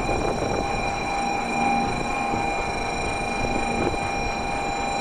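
A Nozomi Shinkansen train standing at the platform, its on-board electrical equipment and cooling fans humming steadily with several constant high tones.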